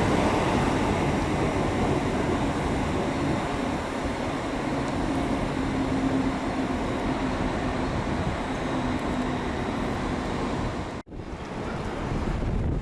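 Train running at a station platform: a steady rumble with a faint low hum in the middle, and the sound cuts out for an instant near the end.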